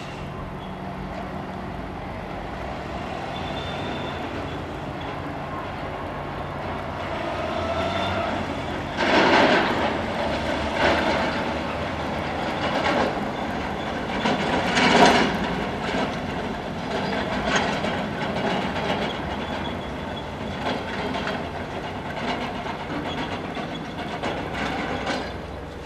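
Train rolling with a steady diesel-like hum that grows louder, then wheels clacking over rail joints in irregular knocks every second or two from about nine seconds in.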